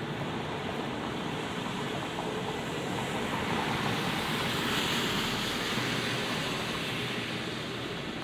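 Steady hiss of light rain on a wet city street. A vehicle's tyres hiss on the wet pavement as it passes, swelling to a peak about five seconds in with a brief low rumble, then fading.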